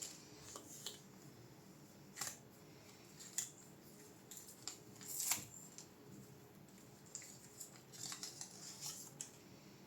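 Irregular light clicks and short scrapes of small tools and parts being handled while a graphics card is worked on by hand, the longest scrape about five seconds in.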